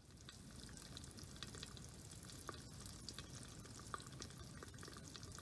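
Faint crackling and sizzling of cooking over a campfire: a light steady hiss with many small, irregular pops and ticks.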